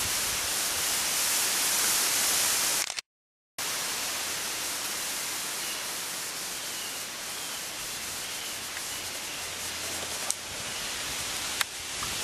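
Wind rushing through trees as a storm picks up: a steady hiss that cuts out abruptly for about half a second around three seconds in, then carries on.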